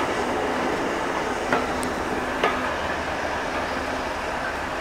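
Train coaches running along the track, heard from a carriage window: a steady rumble and rush of wheels on rail, with a couple of sharp clicks as the wheels cross rail joints in the first half.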